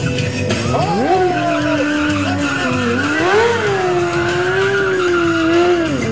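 Motorcycle engine revving: the pitch rises steeply about a second in, holds high, climbs again a little past three seconds, then drops near the end.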